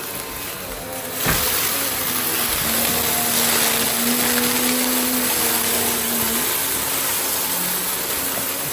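Goodmans TurboMax vacuum cleaner running with a steady rush of air. About a second in there is a knock and the sound gets louder, and a low hum is held for a few seconds in the middle.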